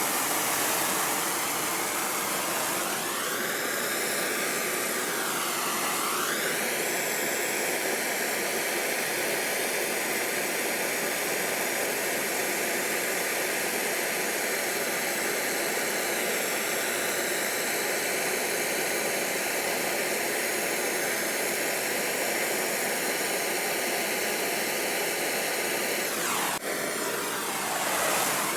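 Brazing torch flame burning with a steady hissing rush while it heats a capillary-tube splice joint for brazing. Its tone sweeps down and back up a few times, and it dips briefly near the end.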